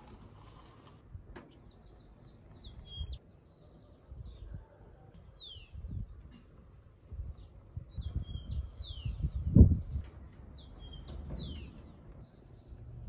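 Small birds chirping, with short high chirps and three quick downward-sweeping whistles. Under them come low bumps and rumbles, the loudest a dull thump about two-thirds of the way through.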